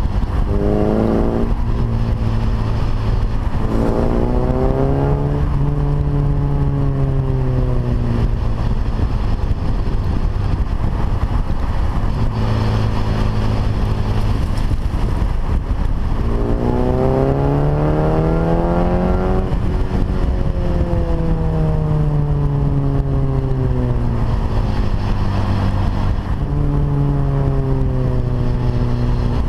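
Datsun Fairlady 1600 roadster with an SR20 engine under way, the engine pulling up through the revs and falling back off the throttle several times, over steady wind and road noise. The revs climb briefly near the start and a few seconds in, climb longest about two-thirds of the way through, and rise again near the end.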